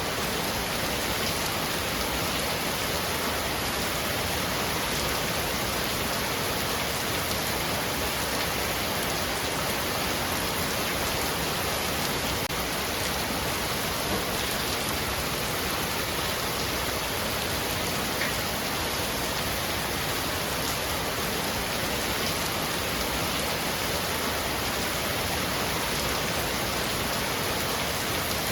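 Heavy rain falling on a roof, a steady dense hiss of drops.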